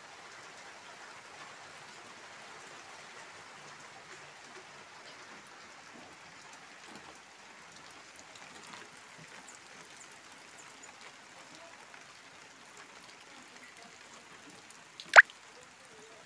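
Rain falling steadily, an even hiss. A single sharp click about fifteen seconds in is the loudest sound.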